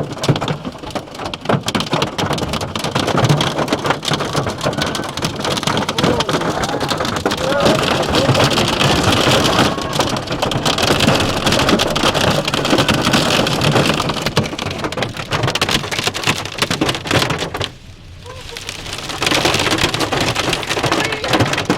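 Hail pelting a car in a dense, steady clatter of many small hits. It lets up briefly near the end, then builds again.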